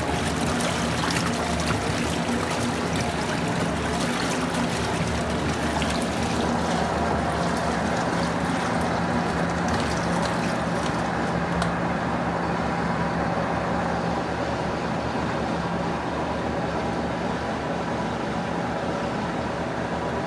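Electrolux Prosdócimo washing machine in its rinse cycle: water running and splashing in the tub over a steady low motor hum. The water hiss eases off a little past halfway.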